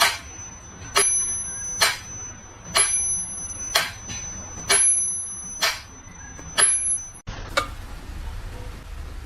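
Sharp knocks or taps at an even pace, a little faster than one a second, over a faint high steady tone. About seven seconds in the sound cuts to a steady low hiss.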